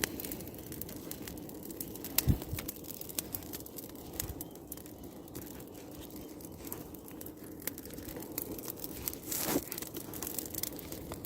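Bonfire of sticks and brush crackling, with many irregular sharp pops and snaps over a low hiss, and a dull thump about two seconds in.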